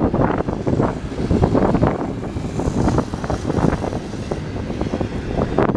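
Freight train cars rolling past, with a steady rapid clatter of steel wheels knocking over the rails.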